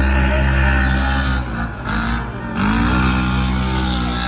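UTV engines racing on a dirt track, running hard at high revs. They ease off about a second and a half in, then rev up again about a second later.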